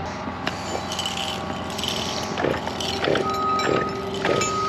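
A work vehicle running. From about three seconds in, a backup alarm beeps in long, evenly spaced tones as it reverses, with a few knocks along the way.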